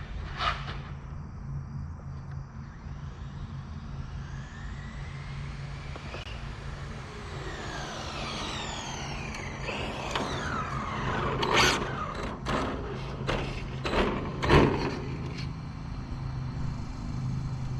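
A vehicle going past with its pitch rising and then falling away, followed by a run of sharp knocks and clicks over a steady low hum.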